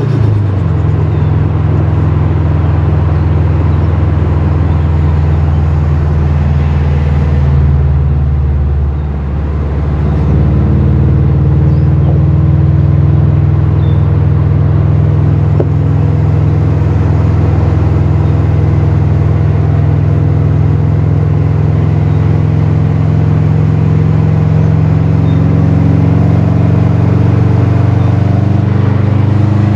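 Turbocharged flat-four engine of a tuned 2018 Subaru WRX STI running at a steady pull while driving, a loud even drone. It drops off briefly about eight to nine seconds in, then comes back up and holds steady again.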